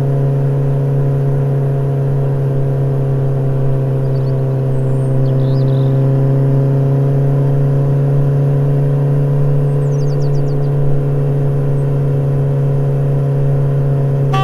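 Motorcycle engine sound effect running at one steady pitch, a constant drone with no revving. A few faint bird chirps sound over it.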